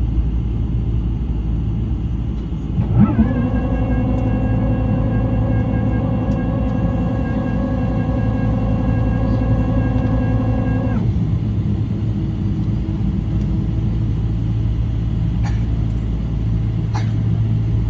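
Steady low rumble inside the cabin of a Boeing 777-300 with Rolls-Royce Trent 800 engines. About three seconds in, a humming tone with a short rising start joins it, holds steady for about eight seconds, then cuts off abruptly; a few faint clicks come near the end.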